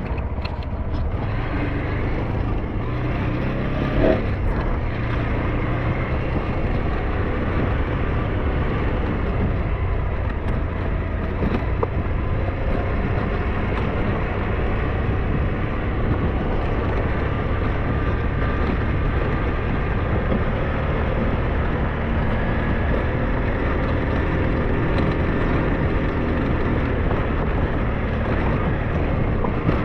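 SYM NH T 200 motorcycle engine running steadily under way, mixed with road and wind noise, with a brief knock about four seconds in.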